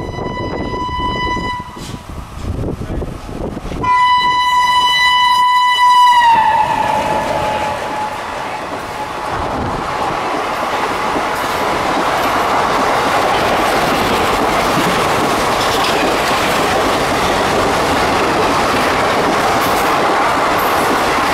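WDG-4 diesel locomotive's air horn sounds twice. The second, louder blast drops in pitch as the locomotive passes. Passenger coaches then roll past with steady wheel-on-rail noise and clickety-clack.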